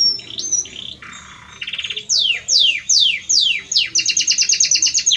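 Male Belgian canary singing loudly to a female: a couple of rising whistles, a short buzzy roll, five quick downward-swooping notes, then a fast trill of about ten notes a second near the end.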